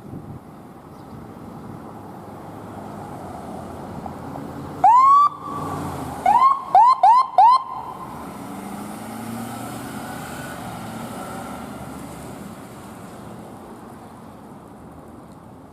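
Emergency vehicle siren blipped: one short rising whoop, then four quick rising chirps in a row, over the sound of the vehicle going by.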